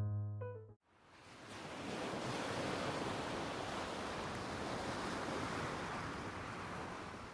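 The last held note of a piano piece dies away, then a steady rushing noise, like water or wind, fades in about a second in and holds on evenly.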